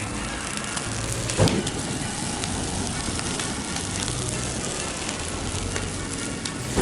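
Bonfire of felled leylandii wood burning with a steady crackling hiss; the wood is not dry enough to burn well. About a second and a half in, a brief louder sound slides down in pitch.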